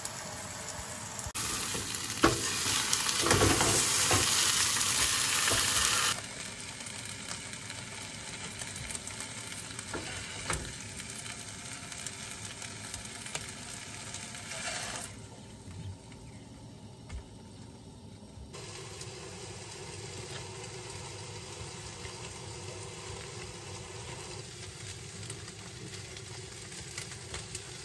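Chicken breasts frying in a pan on a propane camp stove: a steady sizzle, loudest in the first few seconds, with a few sharp clicks.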